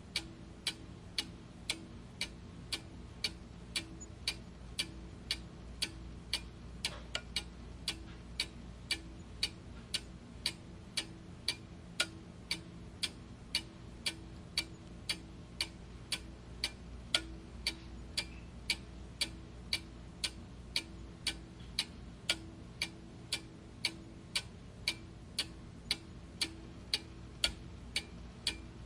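Clock ticking steadily, with sharp, evenly spaced ticks a little under two a second over a faint low hum.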